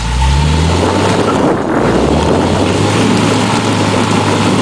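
Off-road 4x4 vehicle's engine revving up right at the start and then held at high revs under load, with loud rushing noise over it.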